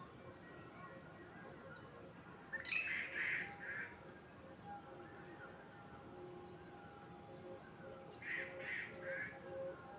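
A bird gives harsh calls in two runs of about three each, a few seconds apart. Fainter, high chirping bird song and steady thin tones run beneath.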